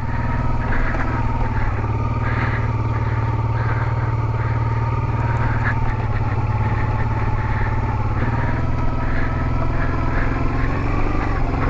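Honda Transalp 650 V-twin engine running at fairly steady revs as the motorcycle climbs a rough dirt and gravel track, with light clatter over the surface and a slight rise in revs near the end.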